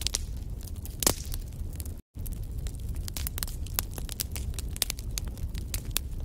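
Wood fire in a fireplace crackling, with frequent small pops over a low steady rumble of flame and one louder pop about a second in. The sound cuts out completely for a moment about two seconds in.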